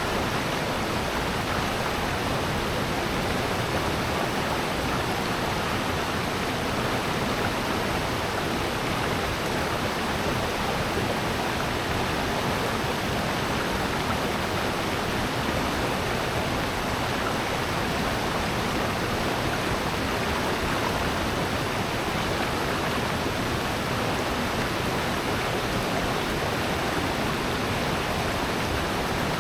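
Water of a mountain valley stream rushing steadily and unbroken.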